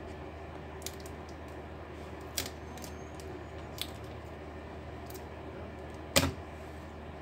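A few sharp clicks and knocks of small hard parts and tools being handled during laptop hinge repair, the loudest about six seconds in, over a steady low hum.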